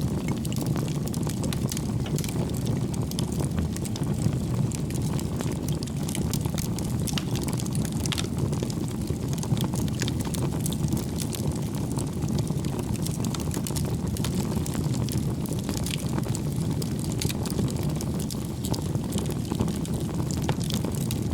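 Wood fire burning in a fireplace: a steady low rumble of the flames with frequent small, sharp crackles from the burning logs.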